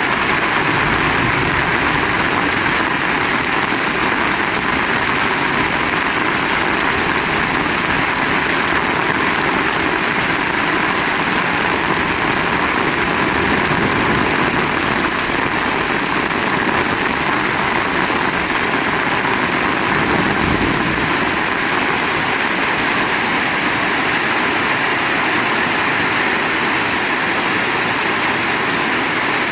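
Heavy rain falling hard and steadily, a loud even hiss.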